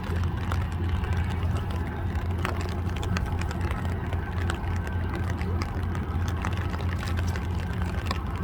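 Steady low drone of a river towboat's diesel engines pushing a barge, with scattered faint clicks over it.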